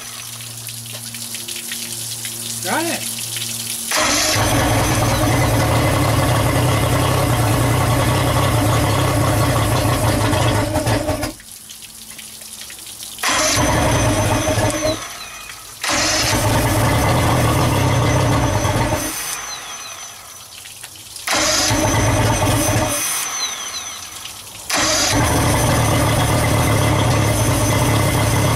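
Johnson J150 outboard motor being cranked on its electric starter in five goes of several seconds each, with short pauses between, without settling into a steady run; two of the goes die away rather than stop sharply. The owner takes the failure to start for carburetor problems.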